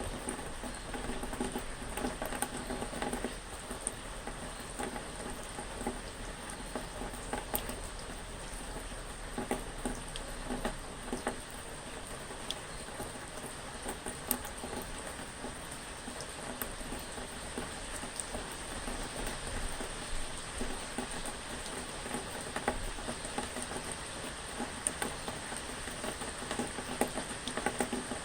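Steady rain pattering, with many small irregular drop ticks over an even hiss.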